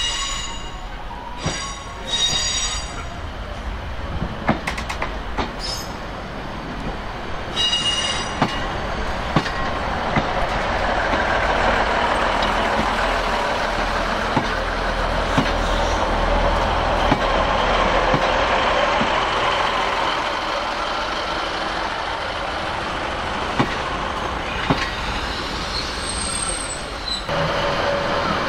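A train running through the station: brief high-pitched wheel or brake squeals in the first few seconds and again about eight seconds in, then a steady rumble of wheels on rail from about ten seconds in, with clicks over the rail joints.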